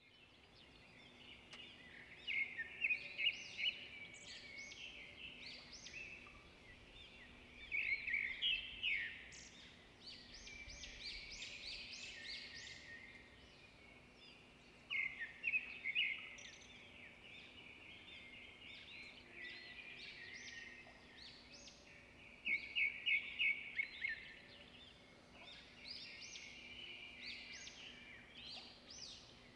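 A small bird calling: bursts of rapid high chirps that come back about every six to seven seconds, over faint steady background noise.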